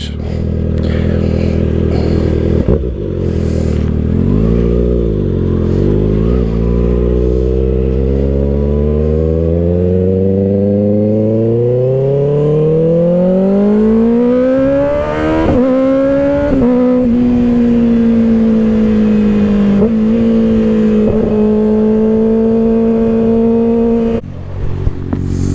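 2024 Kawasaki ZX-6R's 636 cc inline-four through an M4 aftermarket exhaust, heard from the rider's seat. It runs low at first, then pulls with a long, steady rise in pitch. Two quick upshifts drop the pitch, and it settles into a steady cruise until the throttle eases off near the end.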